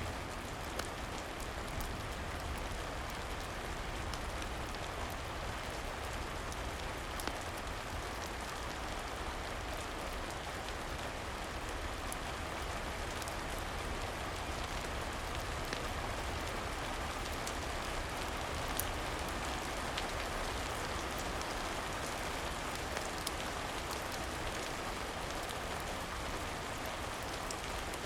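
Steady rain falling, an even hiss of drops with a few faint scattered clicks.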